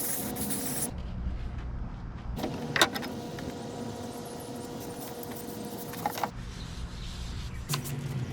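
A small electric power tool motor whining steadily in two runs, a short one at the start and a longer one of about four seconds from a couple of seconds in, with a sharp click or knock in between and another near the end.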